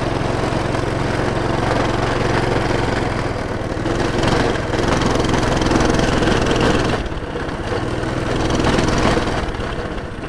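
Coleman pull-start minibike's small four-stroke engine running while riding a trail, its speed rising and easing back a couple of times with the throttle.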